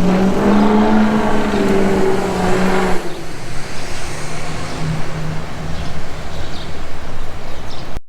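A vehicle engine running with a steady hum over road noise for about three seconds, which then stops, leaving a fainter, lower engine hum.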